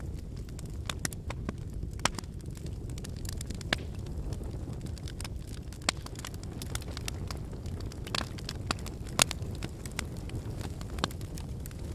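Wood campfire burning: a steady low rustle of flames with irregular sharp pops and crackles from the burning firewood. The loudest pop comes about nine seconds in.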